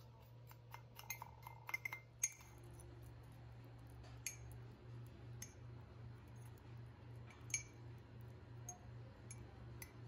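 Metal cutlery clinking against a ceramic mug while batter is stirred in it: a quick run of clinks in the first two seconds, then single light taps every second or so. A low steady hum runs underneath.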